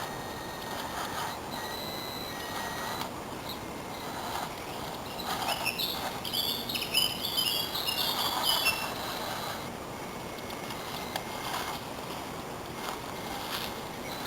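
Faint steady high whine, typical of a radio-controlled model truck's small electric drive, with a bird chirping rapidly for a few seconds midway.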